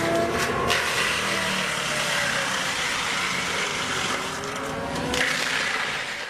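Heavy wood-processing machine running steadily under load: an even mechanical noise of engine and crushing, with faint whines that slide in pitch.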